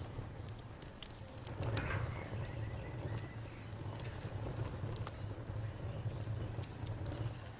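Wood fire crackling, with sharp pops scattered throughout, over a cricket chirping steadily in evenly spaced pulses.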